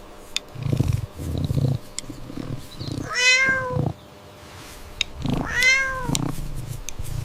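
A cat meowing twice, each a long call falling in pitch, about three and five seconds in, with a low rumble before the first meow.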